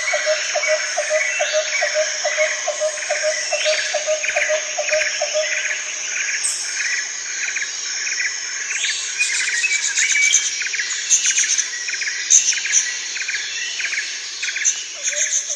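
Birds and insects calling in a rhythmic chorus. Regular chirps come about twice a second throughout. A lower pulsing call repeats about four times a second, stops about five seconds in and returns near the end.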